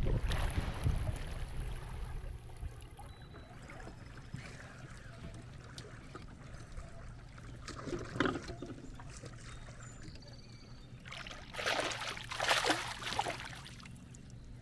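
Water splashing and trickling around a fishing kayak, with a sharp knock at the start, a short splash about eight seconds in and a longer run of splashing near the end.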